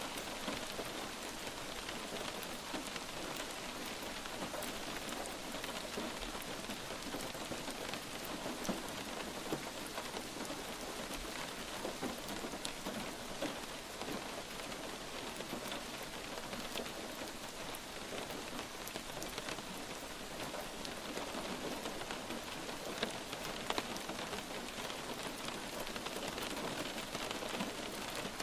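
Steady light rain falling on a surface, an even hiss with scattered individual drops ticking.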